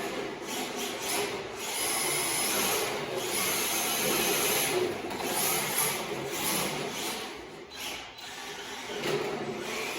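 MST RMX 2.0 RC drift car driving on fresh rubber tires: its electric motor whines, rising and falling with the throttle, and the tires scrub on the floor.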